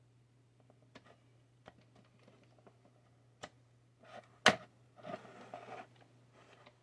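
Parts being handled during assembly: scattered light clicks and taps, one sharp snap about four and a half seconds in, then about a second of rustling and scraping. A faint steady low hum sits underneath.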